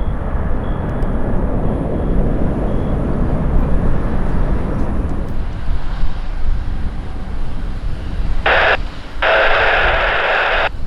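Airplane engine noise at an airport, a steady low rumble. Two short bursts of radio sound come near the end.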